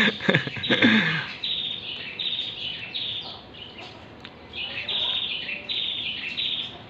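A small bird chirping over and over, short high calls about once a second. A person's voice is heard in the first second.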